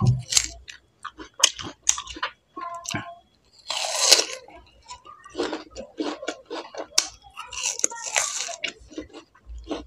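Close-up biting and chewing of raw fruit pieces: crisp crunches and wet chewing, with two longer, louder crunchy spells about four and eight seconds in.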